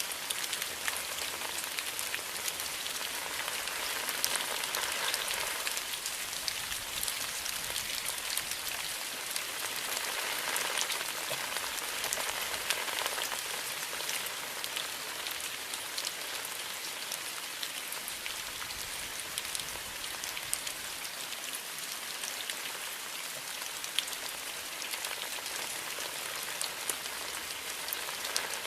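Steady rain falling, a continuous hiss with scattered individual drops ticking sharply through it.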